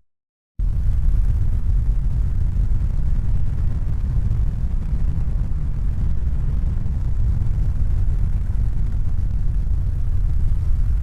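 A steady, deep rumbling noise with no distinct tones. It starts abruptly after a brief silence and fades out near the end.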